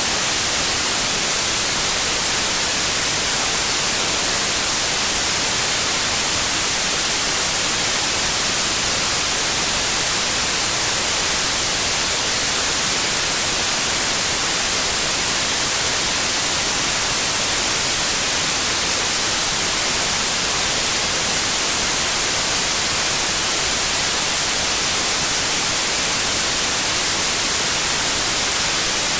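Steady white noise: an even hiss, strongest in the high frequencies, with no changes in level.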